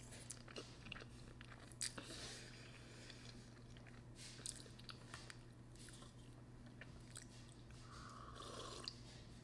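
Quiet mouth sounds of eating spicy ramen noodles: chewing, with scattered small wet clicks and short bursts.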